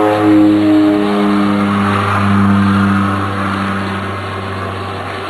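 Propeller airplane engine running at takeoff power, a steady pitched drone that fades over the last couple of seconds as the aircraft moves away.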